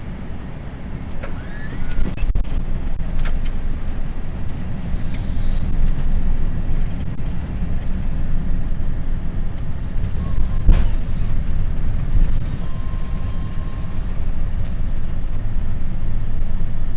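Boeing 747-400 touching down, heard from the cockpit. A knock about two seconds in, then a steady low rumble from the wheels and jet engines that grows louder as the airliner rolls out on the runway.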